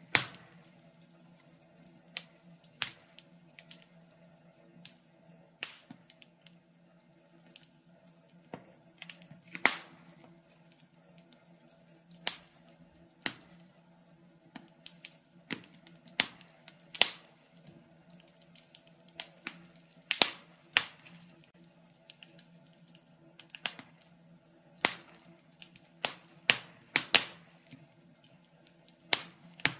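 Wood fire burning in a fireplace, crackling with sharp irregular pops and snaps, one every second or two, over a faint steady low hum.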